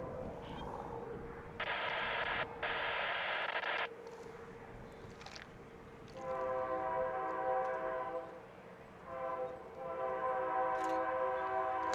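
Diesel freight locomotive's multi-note air horn sounding a series of blasts: two early blasts, a long blast, a short one, then a long blast, the pattern used when approaching a grade crossing.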